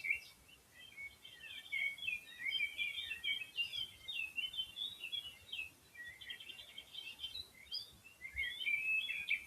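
Small songbirds chirping and twittering in quick high notes, several calls overlapping, with a few short gaps.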